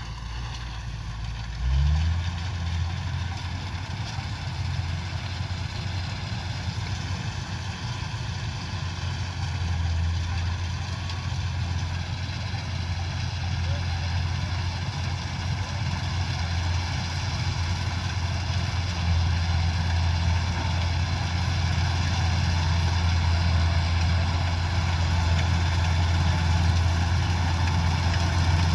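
Kubota DC-105X combine harvester's diesel engine running. About two seconds in it speeds up, then holds a steady hum with machinery noise above it, growing gradually louder.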